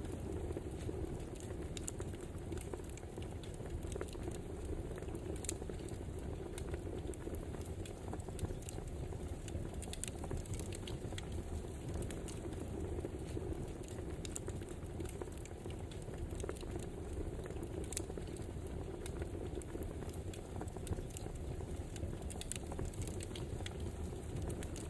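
Wood fire crackling: irregular sharp snaps and pops over a steady low rush of burning logs.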